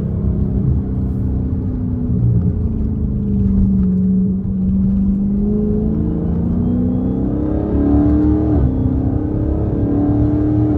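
Straight-piped Dodge Charger Scat Pack's 392 (6.4-litre) HEMI V8 pulling under acceleration: the revs sag about four seconds in, then climb steadily, drop briefly at a gear change just past eight seconds, and climb again near the end.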